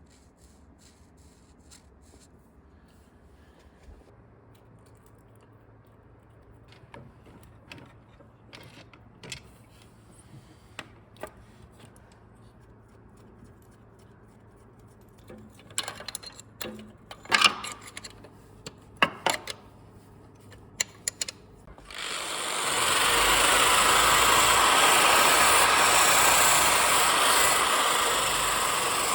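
Metal tools clicking and knocking against engine parts, then about two-thirds of the way through a power tool starts and runs steadily, much louder than the clinks.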